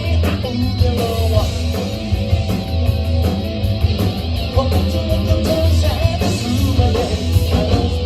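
Rock band playing an instrumental passage: electric guitar over bass and drums, with no vocals.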